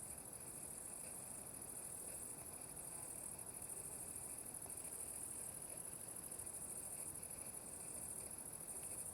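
Meadow insects chirring in a steady high-pitched trill with a faint pulsing.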